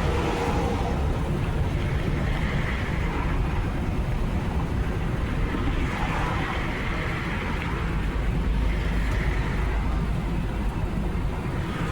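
Semi-truck engine and road noise heard inside the cab while driving: a steady low rumble with an even hiss over it.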